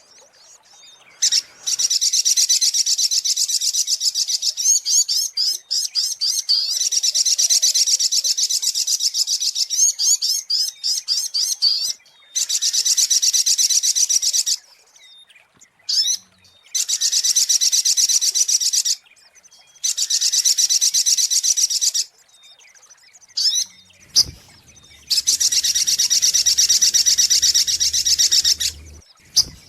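Little spiderhunter (sogok ontong) singing: long runs of rapid, evenly repeated high chipping notes, several seconds each, broken by short pauses, as played in a bird-luring call recording.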